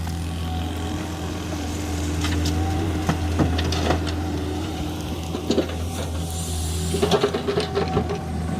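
Diesel engine of a Volvo 210 excavator running steadily, with scattered knocks and rattles in two clusters, a few seconds in and again near the end.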